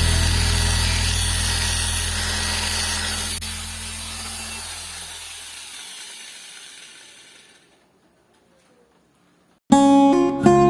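A stone-cutting or grinding machine's motor runs with a steady hum, mixed with background music. The sound fades out gradually over about eight seconds into silence. Near the end, plucked-string music starts abruptly.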